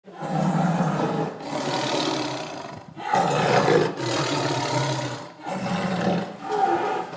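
Tiger roaring and growling, a series of about six rough, drawn-out calls with brief breaks between them.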